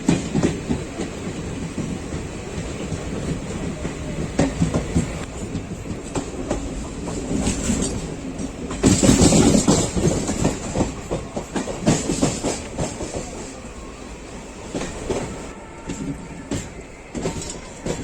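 Express passenger train running on the line, heard from on board: a steady rumble with the clickety-clack of wheels knocking over rail joints, louder for a stretch about halfway through.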